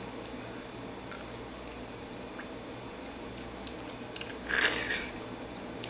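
Faint wet mouth sounds of biting into and chewing a firm, unripe cornelian cherry: scattered small clicks and squishes. A short breathy hiss comes about four and a half seconds in.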